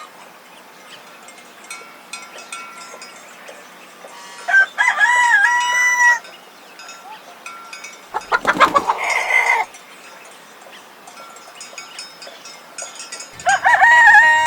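Rooster crowing twice, once about four and a half seconds in and again near the end, with a harsher squawking call in between and faint clucking behind.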